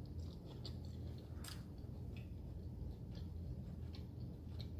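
A person chewing food close to the microphone: a few scattered soft, wet mouth clicks over a low steady hum.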